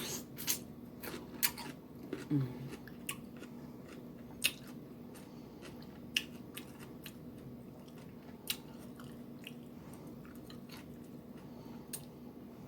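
Close-miked eating: biting and chewing food, with irregular crunches and sharp wet mouth clicks.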